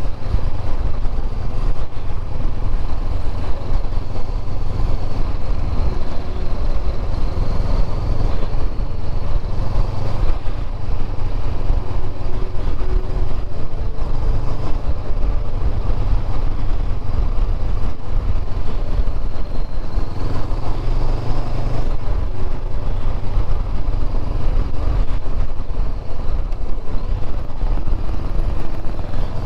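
Honda motorcycle riding at steady speed, its engine running under a heavy, steady low wind rumble on the rider-mounted camera's microphone.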